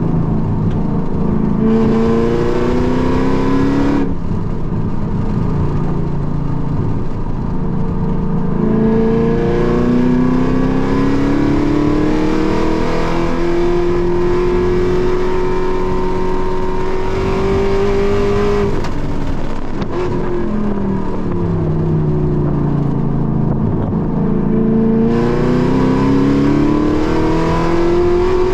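Car engine heard from inside the cabin under hard track driving: the revs climb, drop sharply at an upshift about four seconds in, then climb in one long pull before falling away around two-thirds of the way through as the car slows, and climb again near the end.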